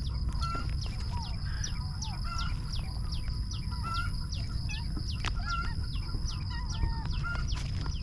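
Small birds chirping, many short quick calls throughout, some sweeping sharply down in pitch, over a steady high whine and a steady low rumble.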